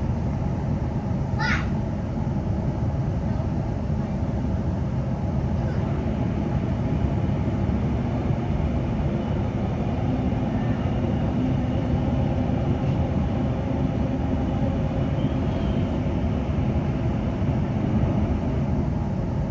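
Steady running rumble of an NGR electric suburban train in motion, heard from inside the carriage. A brief high squeal cuts in about a second and a half in.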